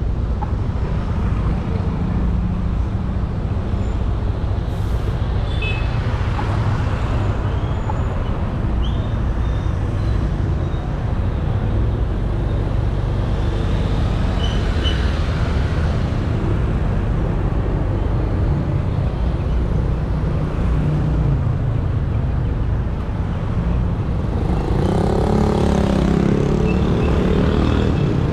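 Honda Beat 110cc scooter riding along, its small single-cylinder engine running steadily under road and wind noise. A few short high chirps come through, and near the end a louder engine sound swells, rising and falling in pitch, as traffic passes close by.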